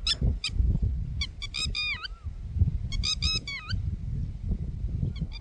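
Birds calling in short clusters of high, squeaky notes, some bending in pitch, with a steady low rumble underneath.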